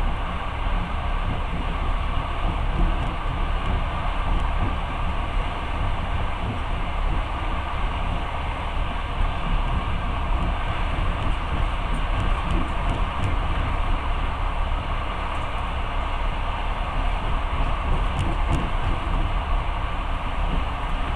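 A long-distance passenger train rolling along, heard from inside the carriage: a steady rumbling noise, heaviest in the low end, with no clear beat of wheel clacks.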